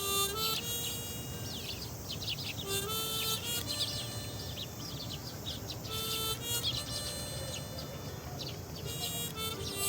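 Sparrows chirping in quick, short notes over background music with a simple stepping melody.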